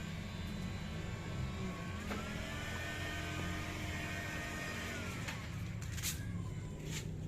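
Truck engine running, its pitch rising about two seconds in, held, then dropping back about five seconds in. Two sharp clicks come near the end.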